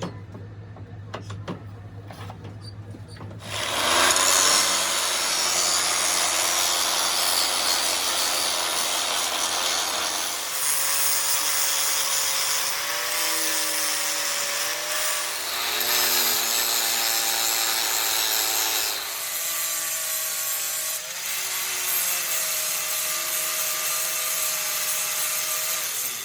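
A power grinder grinding the metal of a differential ring gear. It starts about three and a half seconds in and runs continuously, with a whine that wavers in pitch as it bites under load. Before it starts there is a low steady hum.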